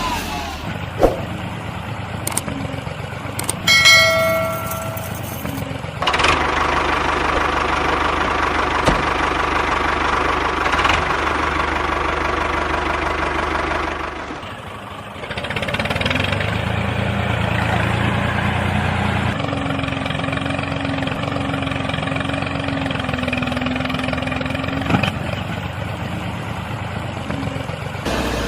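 Small engine of a homemade mini tractor running steadily. It drops away briefly about halfway through, then runs again. A short pitched tone sounds about four seconds in.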